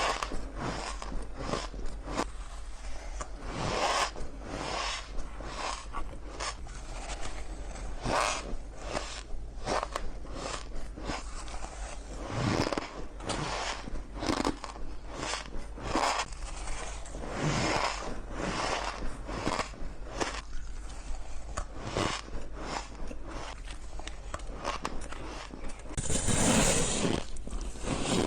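Shaved ice being bitten and chewed: a run of irregular crunches, with a longer, louder crunching stretch near the end.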